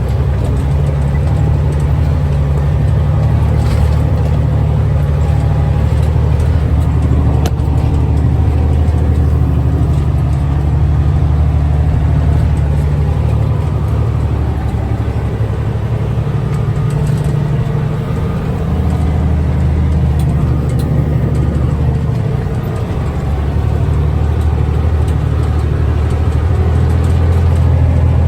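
Log truck's diesel engine running, a steady low drone that eases off briefly about two-thirds through and builds again near the end.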